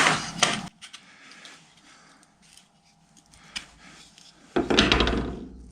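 Faint handling noises of small parts being moved about, with a single click partway through and a louder rub and knock near the end.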